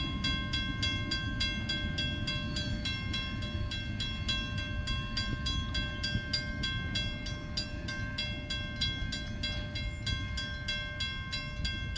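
Train cars rumbling past on the track while a railroad crossing bell rings with rapid, even strikes throughout.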